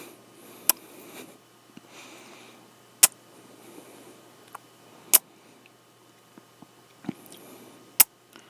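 Close-up kissing sounds: four sharp lip smacks about two seconds apart, with fainter mouth clicks and soft breathing between them.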